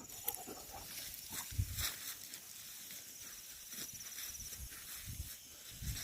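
Quiet woodland with a few soft footfalls on the forest floor and a faint, rapid insect trill partway through.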